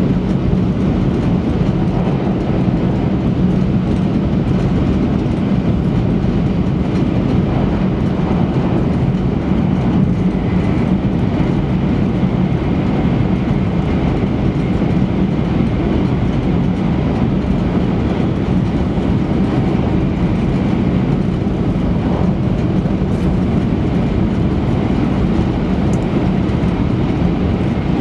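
Steady running noise of an E3-series Shinkansen at speed, heard from inside the passenger cabin: an even rumble and rush with a constant low hum.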